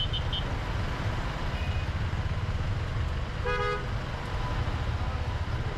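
Motorcycle riding along with a steady low engine and road rumble. A short vehicle horn honk comes about three and a half seconds in, after a few quick high beeps at the start.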